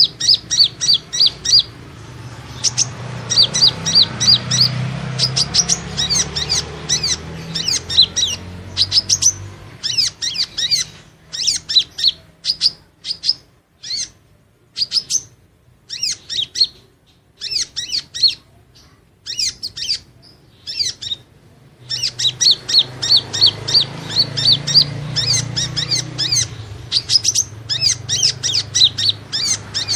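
Kolibri ninja (konin) sunbird calling: quick runs of sharp, high-pitched chirps. They are dense at the start and near the end, and sparser, with short pauses, in the middle. It is a calling sound played to lure the birds in.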